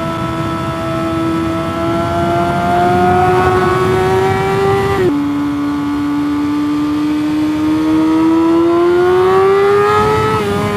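Sport motorcycle engine pulling under acceleration, its pitch climbing slowly, then dropping sharply at an upshift about halfway through and climbing again toward the end.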